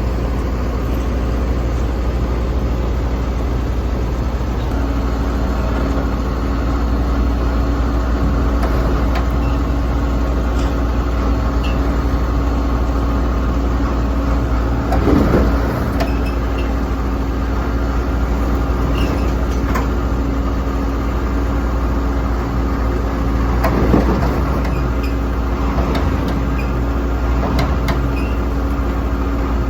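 A heavy engine running steadily, its pitch stepping up slightly about five seconds in, with two brief louder noises, one around the middle and one near the end.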